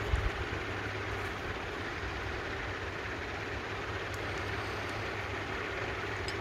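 Steady low hum and noise, with a few faint light clicks near the end.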